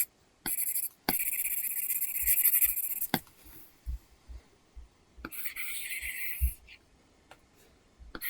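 Apple Pencil tip scratching across an iPad screen fitted with a paper-texture film while drawing. There is a short stroke, then a long stroke of about two seconds, then another stroke of over a second, with sharp taps of the nib on the screen between them.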